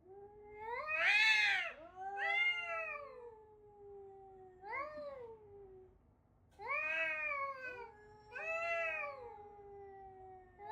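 Domestic cat yowling: about five long, drawn-out meows, each rising and then falling in pitch, some overlapping, with a short pause midway.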